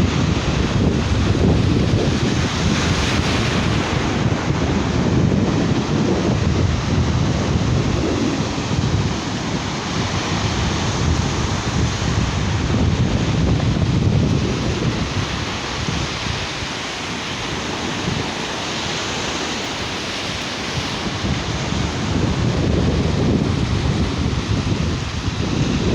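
Sea waves breaking and washing ashore, with wind buffeting the microphone; the noise swells and eases without a break.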